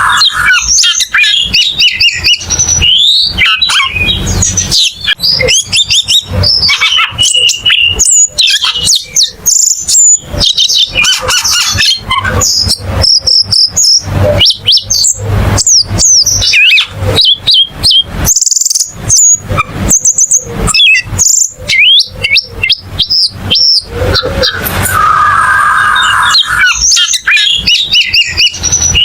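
Cucak keling bird singing: a continuous, fast jumble of sharp chirps, whistles and clicks, with a lower warbling phrase near the end.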